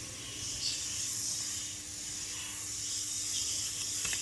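Steady hiss, with a faint, steady low hum underneath.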